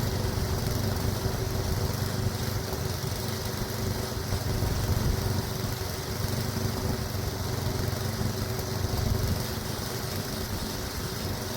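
Small gasoline engine running steadily.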